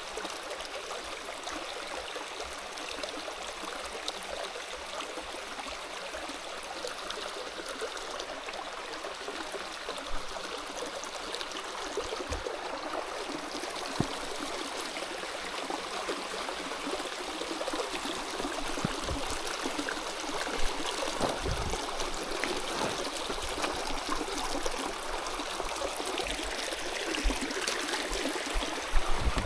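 Steady rush of a stream's running water, with a few faint knocks now and then.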